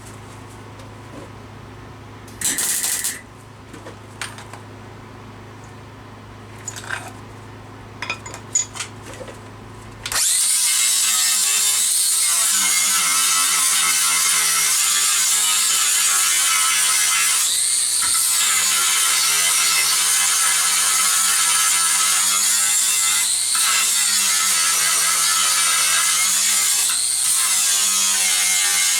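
MIG welder welding steel body panels. Over a low steady hum there is a brief burst of welding about two and a half seconds in, then from about ten seconds a continuous run of loud welding crackle.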